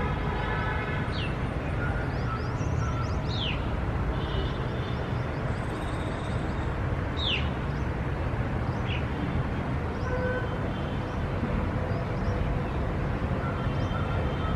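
Steady outdoor city ambience: an even low rumble and hiss of distant traffic, with birds calling over it, including about four sharp downward-sweeping chirps spread through and fainter twittering.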